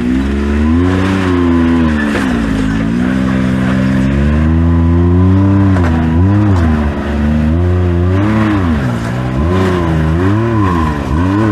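Side-by-side UTV engine revving up and down over and over as the driver works the throttle to climb a rocky obstacle. It holds longer swells at first, then quicker blips about once a second in the second half.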